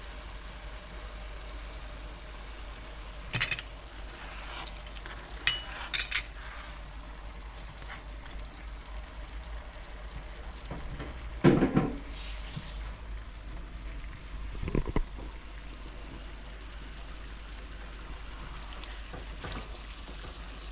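Long squash with tomato and pepper sizzling as it sautés in a pot, with a few knocks and scrapes of a stirring spoon against the pot; the loudest knock comes about halfway through.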